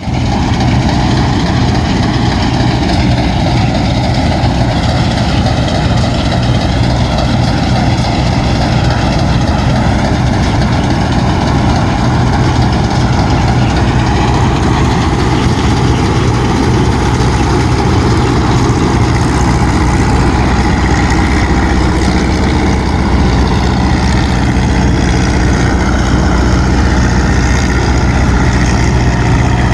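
Engine of a Fortschritt machine idling steadily, a loud, even, low-pitched running note with no revving.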